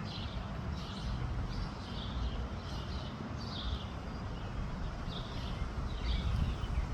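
A bird calling with short chirps, repeated steadily a bit more than once a second, over the low rumble of wind buffeting the microphone.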